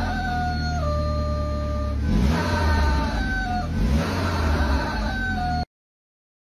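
Car engine running with a deep rumble and a couple of short revs. Over it a high tone sounds three times, each time dropping a step in pitch. Everything cuts off suddenly about five and a half seconds in.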